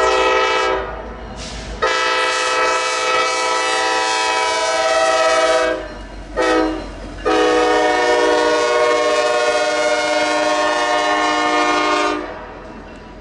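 Locomotive air horn sounding a chord of several notes in a long, long, short, long pattern: the standard signal for a road crossing. The blasts stop suddenly near the end, leaving the lower rumble of the train.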